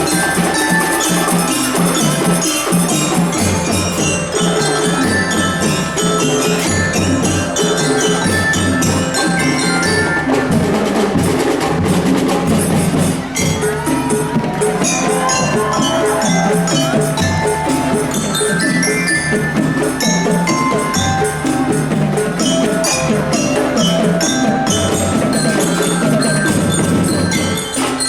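A school drum band playing: drums beating under a bright, bell-like melody on mallet percussion.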